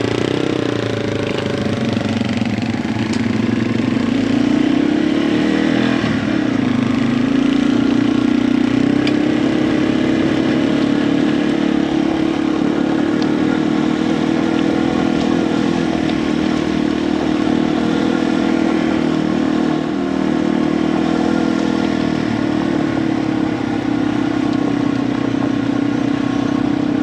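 Yamaha TW200 dirt bike's single-cylinder four-stroke engine running, revving up a few seconds in and then holding a steady pitch.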